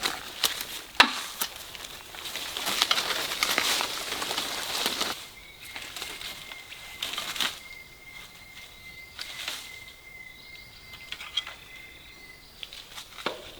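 Dry fallen leaves rustling and crackling, busy for about the first five seconds and then only scattered crackles. A faint, thin, steady high tone runs through the second half.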